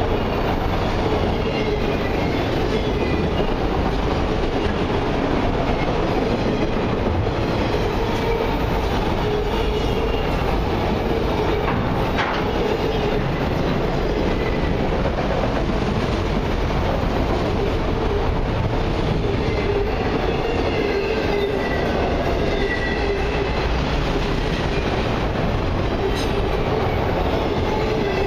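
Autorack freight cars rolling past close by: a steady rumble and clatter of steel wheels on rail, with faint high-pitched wheel squeals coming and going.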